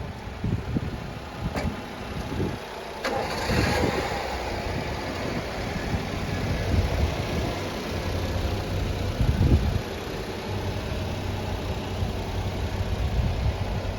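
1995 Honda Acty mini truck's small three-cylinder engine starting about three seconds in, after a click or two, then idling.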